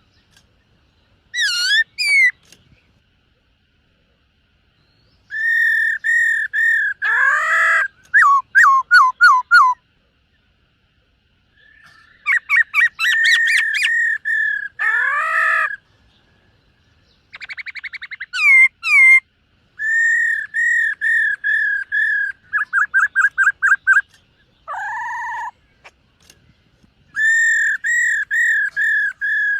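Black-throated laughingthrush singing: loud, clear whistled phrases of rapidly repeated notes and quick sweeping slurs, broken by pauses of a couple of seconds.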